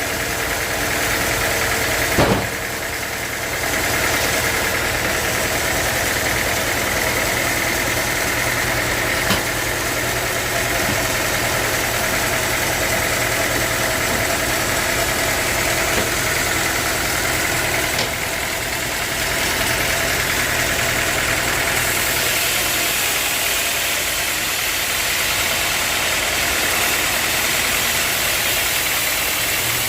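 Sawmill machinery running steadily, an engine-like drone with several steady tones, broken by a few short knocks.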